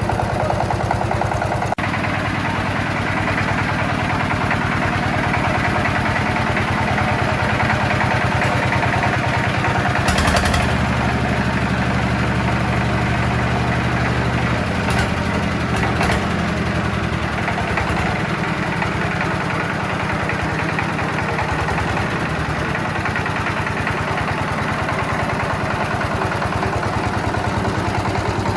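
A restored farm tiller's small engine running steadily. About ten seconds in there is a short clatter, and its low note changes for several seconds after.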